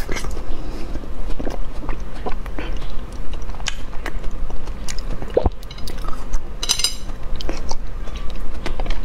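Close-miked chewing of a soft, sticky strawberry gummy candy coated in yogurt: scattered wet mouth clicks and smacks, with one brief louder noise about seven seconds in.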